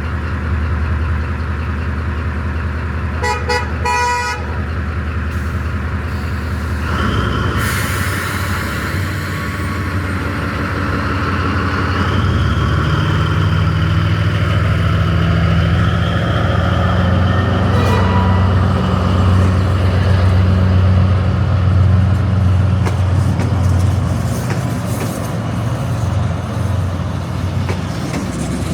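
Metre-gauge sightseeing train running with a steady low engine drone that grows louder in the middle, with a quick run of short horn toots about three seconds in and high whining tones over the drone for several seconds after that.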